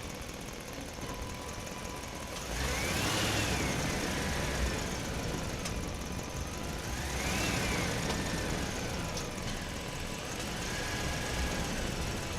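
Small 370-size electric motor and gear drive of an RC Land Rover Defender 90 pickup, whining up in pitch and falling back three times as the throttle is applied and released, over a steady rattling running noise.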